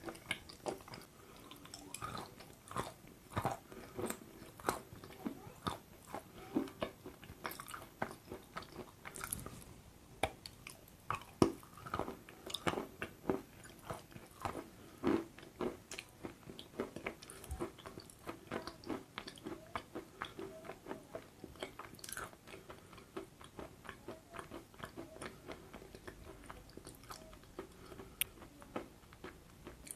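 Close-miked eating sounds: a person chewing a mouthful coated in thick chocolate paste, with many soft, irregular mouth clicks and smacks.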